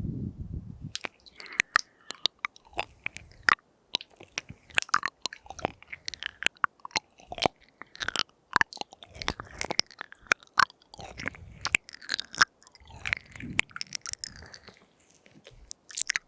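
Close-up ASMR mouth sounds into a binaural microphone: a rapid, irregular string of wet lip smacks, tongue clicks and small pops. A breathy blowing sound fades out in the first second.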